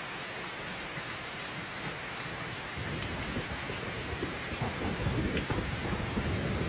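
Steady heavy rain falling, with a deep, low rumble building in about three seconds in and growing louder toward the end.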